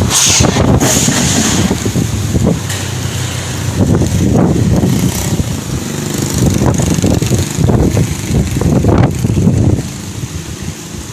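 Strong gusty wind buffeting the microphone: a loud, uneven low rumble that surges and eases, with a hiss above it.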